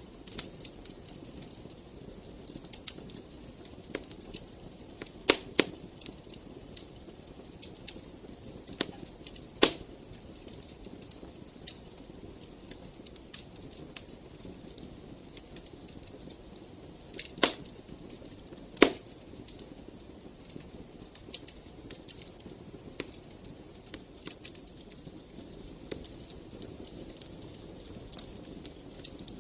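Wood fire crackling in a fireplace: irregular snaps and pops over a steady soft rush of flame, with about four louder pops spread through.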